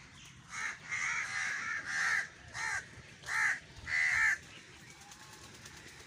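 A bird calling repeatedly: about six loud calls in quick succession, each rising and falling in pitch.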